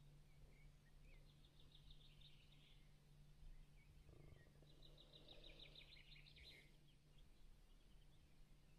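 Near silence with faint birdsong: two short trills of rapid repeated high notes, the second dropping in pitch near its end.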